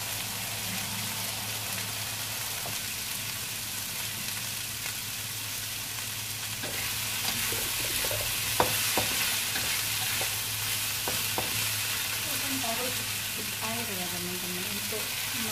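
Tempe and long beans sizzling in a wok, the frying hiss growing louder about halfway through as a spatula stirs them, with a few sharp clicks of the spatula against the wok.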